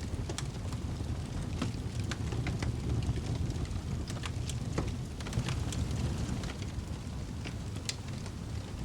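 Wood fire burning in a fireplace: a steady low roar of flames with irregular sharp crackles and pops of burning logs.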